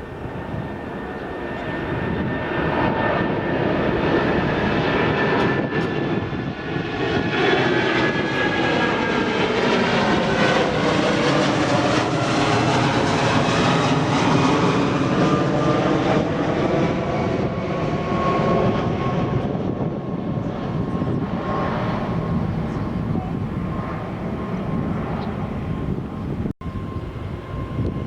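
Jet airliner passing close by: engine noise builds to a peak about halfway through and then eases off, with a whine that falls in pitch as it goes by. A momentary dropout in the sound comes near the end.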